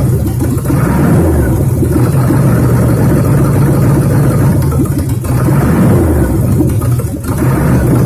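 ZMZ-511 carbureted V8 engine running on its first start after being fitted to a car, the engine speed rising and falling a little, with brief dips about five and seven seconds in.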